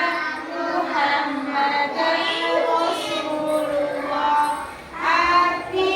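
High voices singing a melody without accompaniment, with notes held and gliding and a brief dip about five seconds in.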